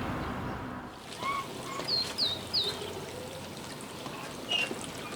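Small birds chirping: a short cluster of three quick, high chirps about two seconds in and a single chirp near the end, over a faint steady background hiss.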